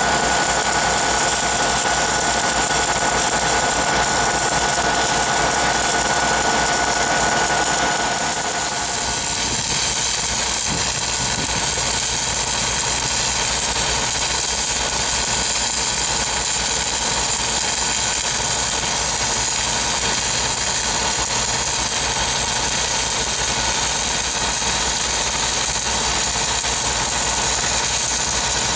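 Engine of an engine-driven welding machine running steadily. About eight seconds in its sound changes: a high steady tone drops away and a wider hiss takes over.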